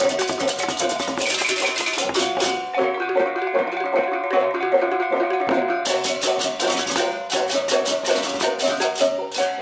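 Balinese gamelan music: tuned metal gongs and metallophones ringing in interlocking patterns over a fast, crisp cymbal clatter, which drops out for about three seconds in the middle and then comes back.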